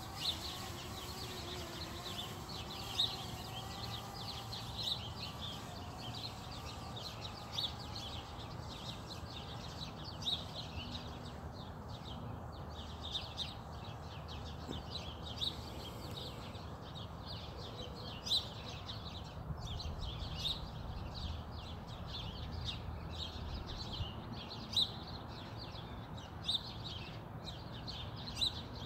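Small birds chirping on and off, short high calls repeating every second or two, over a faint low hum.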